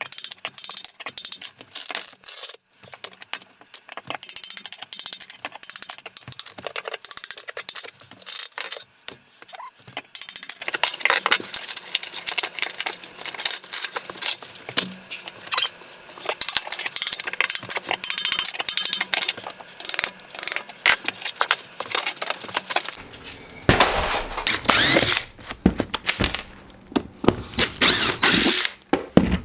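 Old kitchen flooring being torn up with hand tools: a dense run of clattering knocks and scraping, with a louder stretch of harsh scraping about three-quarters of the way through.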